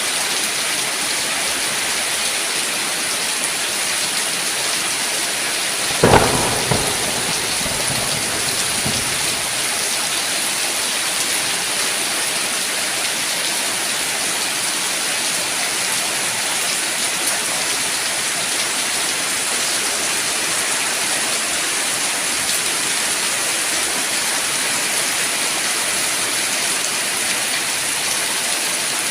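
Steady rain falling, with one sharp thunderclap about six seconds in whose rumble dies away over the next few seconds.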